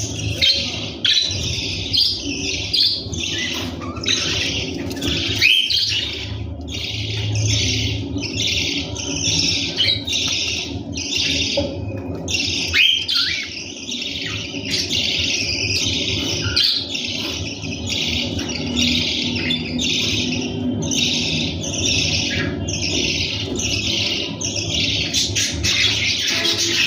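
Budgerigars chattering and warbling continuously in quick broken phrases, with a steady low hum underneath.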